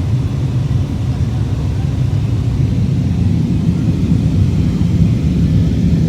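Low-flying airplane's engines giving a steady low rumble that grows slightly louder in the second half.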